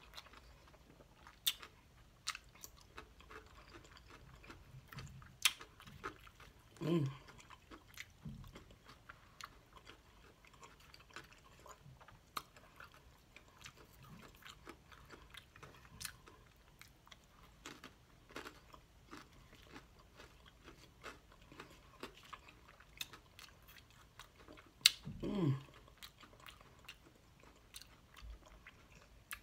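A person chewing and crunching a mouthful of salad with croutons, with many sharp crunching clicks scattered throughout, and two short hums of the voice, about seven seconds in and again near the end.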